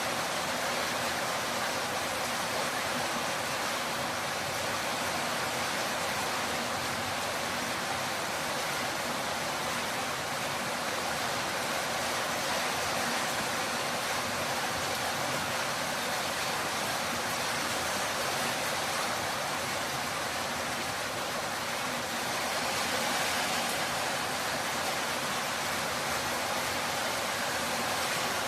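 Torrential rain falling steadily, a dense even hiss with little bass, swelling slightly about three-quarters of the way through.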